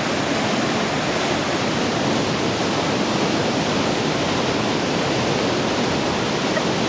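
Steady rush of a large waterfall, the Pailón del Diablo, heard close by with its spray blowing up from below.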